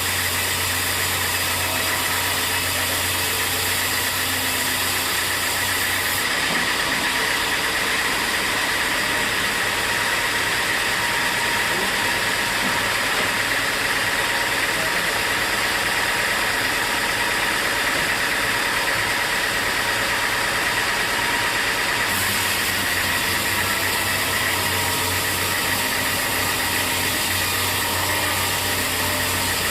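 Sawmill machinery running steadily: a constant mechanical din with a steady high whine. The sound changes abruptly about six seconds in, losing its low hum and top hiss, and changes back about twenty-two seconds in.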